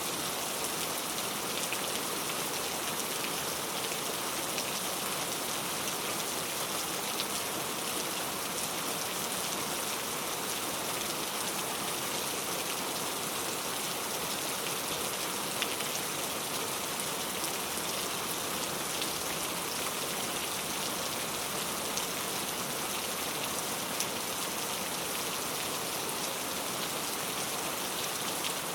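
Steady rain falling, a constant hiss with many fine drop ticks and no thunder.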